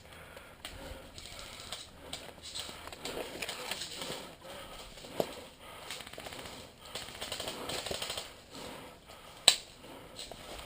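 Airsoft gunfire under a pin-down: scattered faint clicking shots in short bursts, with two sharper cracks, one about halfway through and one near the end.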